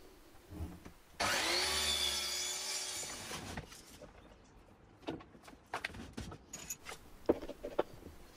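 A flip-top workbench being turned over: a wooden scraping and creaking noise with a wavering tone that starts suddenly and fades over about two seconds, followed by scattered knocks and clicks.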